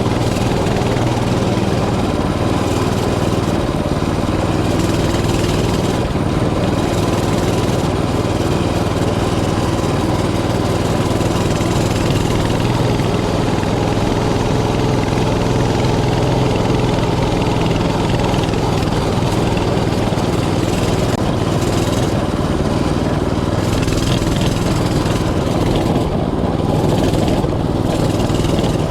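Mini bike's small engine running steadily, with little change in its pitch.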